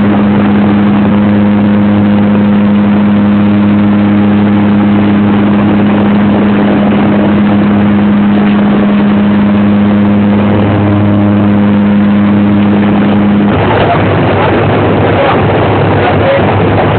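Loud, steady engine drone with a held hum of even pitch. About thirteen seconds in the hum drops out and a rushing noise takes over.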